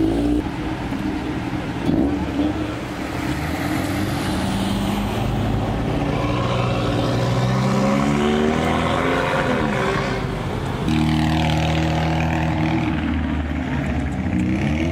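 Modified cars' engines pulling away and accelerating one after another, with a rising engine note in the middle. About eleven seconds in, the sound changes suddenly to a steadier engine.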